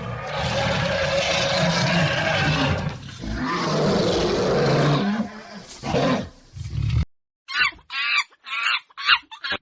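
A large animal's long, rough roaring call in several breaths, cut off sharply about seven seconds in, followed by a chicken clucking in short, repeated calls.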